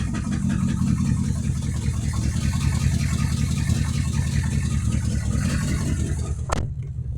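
Mercedes-Benz S550 W221 4Matic running with a steady low rumble and a fast, even ticking over it: the unexplained noise the owner is asking about. About six and a half seconds in there is a sharp click, after which the higher part of the sound drops away.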